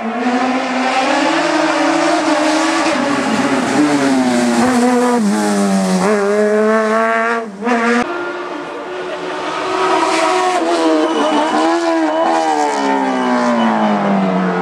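Racing car engine under hard acceleration on a hillclimb, its pitch climbing steadily, cutting out sharply for an instant about halfway as the revs drop, then climbing again and falling away near the end.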